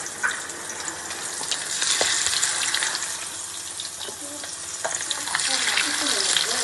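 Marinated chicken leg pieces sizzling and crackling as they fry in hot oil, the sizzle swelling about two seconds in and again near the end.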